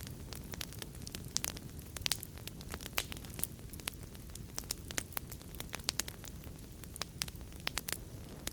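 Wood fire in a fireplace crackling: a steady low rumble of flames with irregular sharp pops and snaps, several of them louder.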